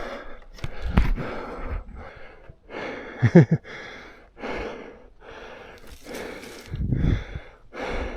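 A mountain biker breathing hard from the exertion of the downhill run, rapid breaths about every two-thirds of a second. There is a short voiced exhale about three seconds in, and low rumbling thumps around one and seven seconds in.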